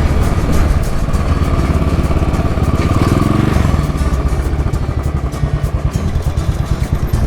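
Royal Enfield Bullet 500 single-cylinder four-stroke engine running while under way. The pitch rises briefly about three seconds in, and the exhaust beats come slower and more distinct in the second half as the engine eases off.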